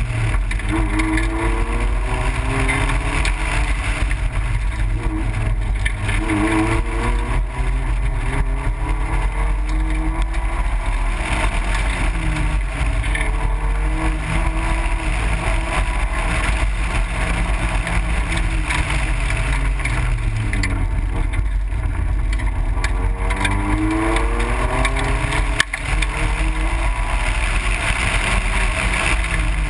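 Roadster's engine revving up and falling back again and again as the car accelerates and slows through an autocross course, under a steady rush of wind and road noise on the outside-mounted microphone.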